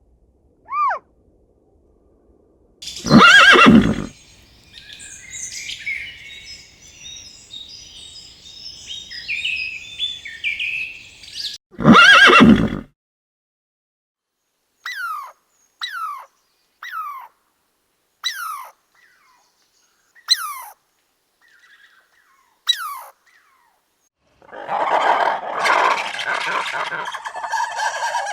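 A horse neighing twice, with birds twittering between the neighs. Then about six short, falling, whistled bird calls, one every second or two, and near the end a dense stretch of what sounds like hens clucking.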